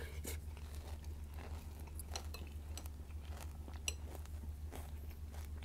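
Crunchy Vector cereal being chewed, with a spoon clicking and clinking against the bowl; one sharper click a little before four seconds in. A washing machine hums steadily underneath.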